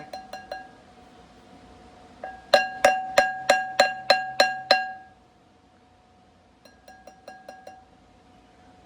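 A hammer tapping dowel pins into a steel flywheel, and each blow makes the flywheel ring with a clear pitched tone. There are a few light taps, then a run of about nine harder blows at roughly four a second, then a quicker run of faint taps near the end.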